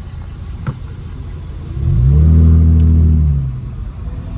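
Straight-piped Mercedes-Benz C350's 3.5-litre V6 exhaust: a low rumble, then about two seconds in a rev that rises in pitch, holds for over a second and falls back.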